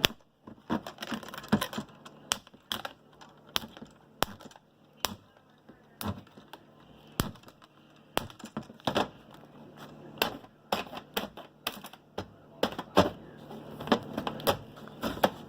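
Packaging being handled and worked open, with irregular sharp clicks, crackles and snaps.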